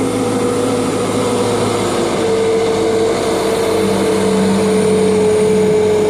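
Merlo telescopic handler's engine running steadily under load, a constant hum with a slight step up in pitch about two seconds in.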